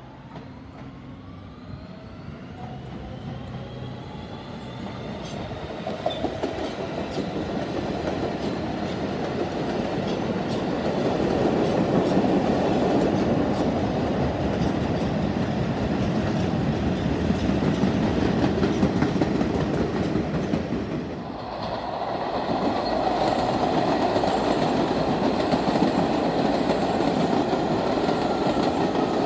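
R160B subway train with Siemens traction motors, its motor whine rising in pitch as it speeds up and draws near. It then runs loudly past, wheels rumbling and clicking on the rails. The noise dips briefly about three-quarters of the way through, then comes back just as loud.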